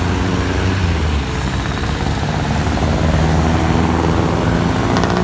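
An engine running steadily: a low droning hum under a loud hiss.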